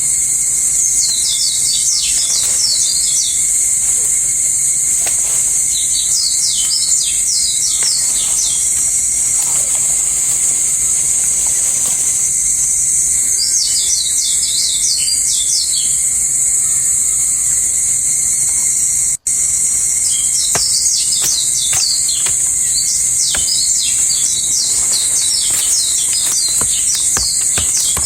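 Forest ambience: insects droning steadily on one high note, with several bursts of rapid twittering bird calls over it. The sound cuts out for an instant about two-thirds of the way through.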